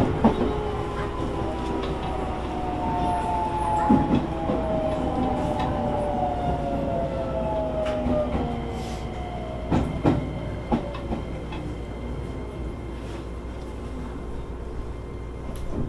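Onboard running sound of a Shin-Keisei N800 series electric train: the whine of its Toyo IGBT VVVF inverter falls in pitch as the train slows toward a station, over a steady hiss of the car's air conditioning. Wheels knock sharply over rail joints now and then, twice in quick succession about ten seconds in.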